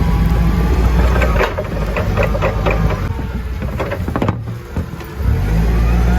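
Work vehicle's engine running. About a second and a half in the engine drops back and a run of clanks and rattles follows for a few seconds. The engine picks up again with a rising whine near the end.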